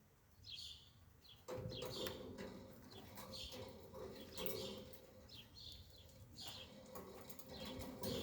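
Birds chirping in short, repeated calls, over a faint low steady sound that comes in suddenly about a second and a half in.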